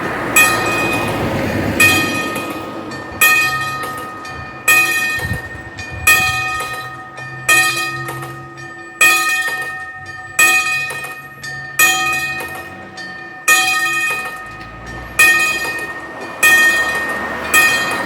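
Level crossing warning bell striking at an even pace, about one stroke every second and a half, each stroke ringing out and dying away before the next.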